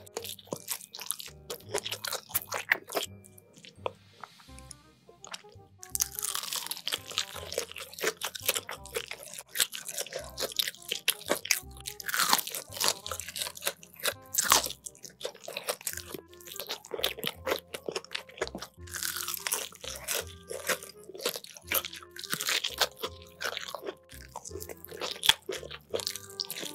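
Close-miked biting and chewing of crispy sauce-glazed fried chicken: many sharp, crackling crunches in quick succession, with a short lull about four seconds in. Background music plays underneath.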